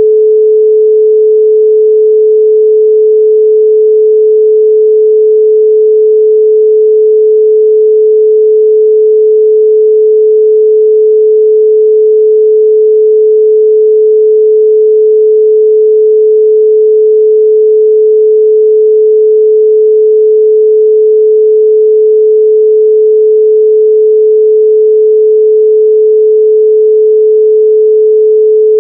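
A continuous 432 Hz pure sine tone, steady and unchanging in pitch and loudness.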